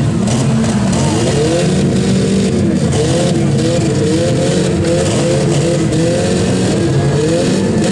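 Demolition derby cars' engines running loud, several at once, revving again and again in short rising and falling sweeps.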